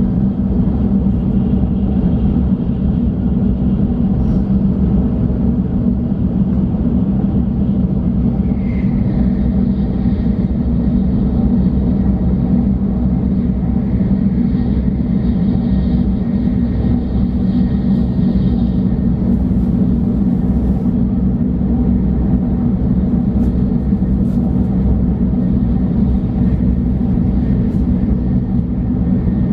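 Tokaido Shinkansen running at speed, heard inside the passenger carriage: a steady, unbroken low rumble of running noise.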